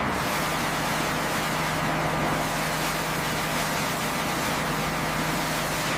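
Steady mechanical drone with a constant low hum, starting abruptly and holding level without change.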